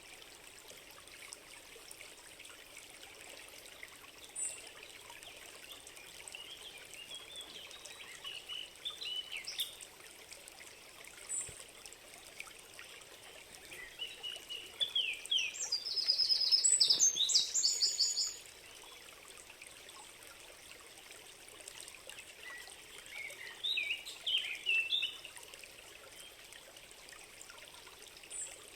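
Songbirds singing over the steady trickle of a small stream. Short phrases and chirps come every few seconds, the loudest a fast trill lasting about two seconds around the middle.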